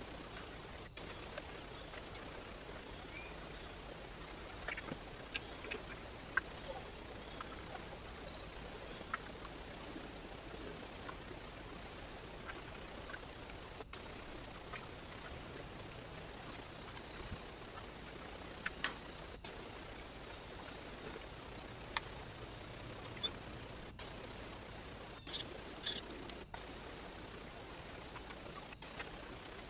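Steady hiss from a trail camera's microphone, with scattered faint short ticks and clicks every few seconds.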